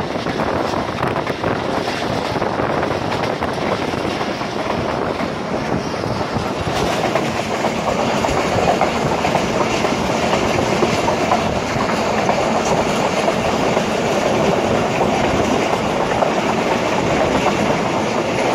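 Steady running noise of a passenger coach travelling at speed, its wheels on the rails, heard at the coach's open window.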